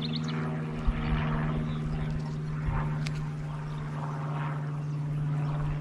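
Swarm of honeybees buzzing around an opened hive, a steady drone that does not let up. The colony is agitated and defensive.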